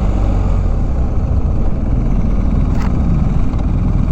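BMW R1250 GS boxer-twin motorcycle riding at steady speed, heard from the rider's own mic: a constant engine drone under heavy wind rush.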